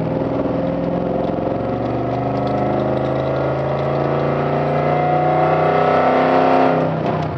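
Nissan Titan's 5.6-litre VK56DE V8 through catless long-tube headers and an Apexi N1 muffler, heard inside the closed cab: the exhaust note climbs steadily in pitch and loudness as the truck accelerates for about seven seconds, then drops off sharply near the end.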